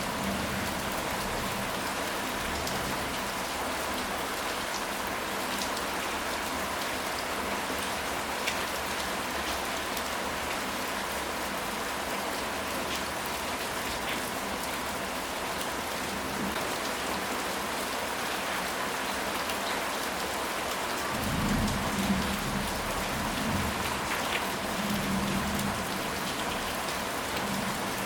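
Steady rain falling, with scattered individual drops ticking. About three quarters of the way through, distant thunder rumbles low for a few seconds.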